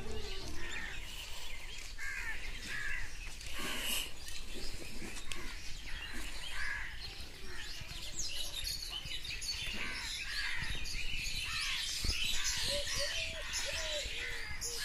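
Outdoor birdsong: many small birds chirping and calling over one another. About three-quarters of the way through, a dove starts cooing in a steady repeated series of low notes.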